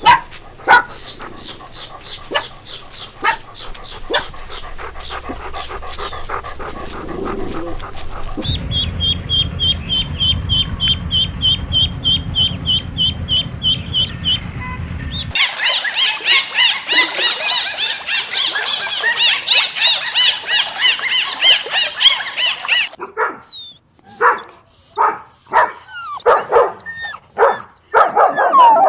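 A dog barking and yipping, among a string of different animal calls. These include a run of evenly repeated high calls, then dense high chirping from about halfway through, and then separate short calls near the end.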